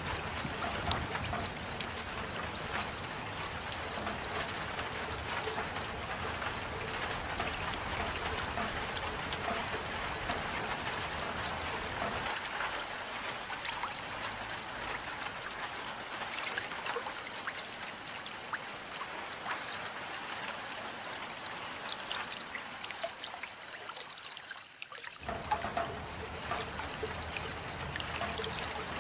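Rain falling steadily: a dense, even patter of drops. The deeper part of the sound fades about twelve seconds in and comes back after a brief dip near the end.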